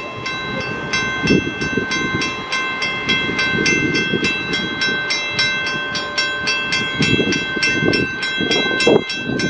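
Railroad grade-crossing warning bell ringing fast and evenly, about four strikes a second, as a Long Island Rail Road train approaches. The train's low rumble swells and fades underneath.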